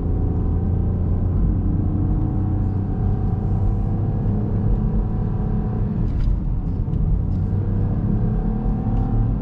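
Car engine and road noise heard from inside a moving car's cabin: a steady low rumble with an engine note that slowly drifts up and down in pitch.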